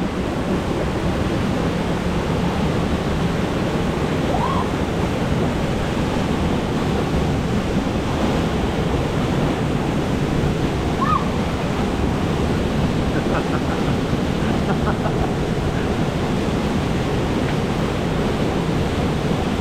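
Waterfall pouring with a steady, loud rush of water heard up close, the falling water strong and powerful.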